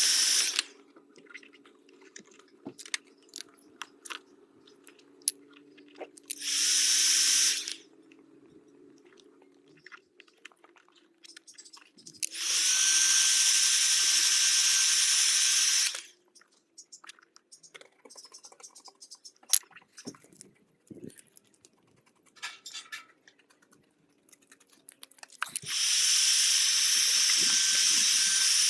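Heat gun blowing hot air onto a plastic bumper in four spells, from about one second to four seconds long, each starting with a short rising whine as the fan spins up. Scattered clicks and crackles come between the spells.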